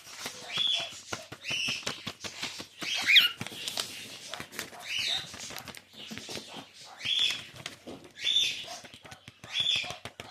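Cockatiel working a piece of paper with its beak: crinkling and tearing in short bursts about once a second, with many small clicks of beak on paper. One brief falling chirp from the bird about three seconds in.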